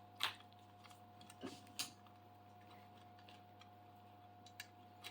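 A few faint clicks and taps of small metal hardware being handled as a screw is fitted into the CNC frame, three of them in the first two seconds and a couple more near the end, over a steady faint hum.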